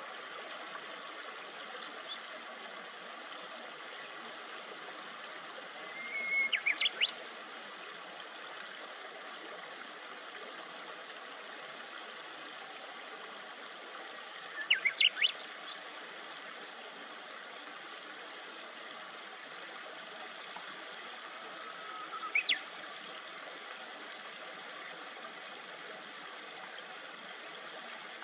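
Steady babbling of a shallow river, with a small songbird chirping three times: each a quick run of a few rising notes, about 6, 15 and 22 seconds in.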